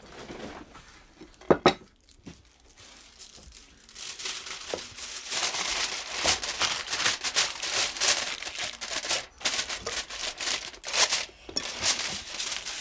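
Aluminium foil being handled: crinkling and tearing, dense and crackling from about four seconds in. Two sharp knocks come about one and a half seconds in.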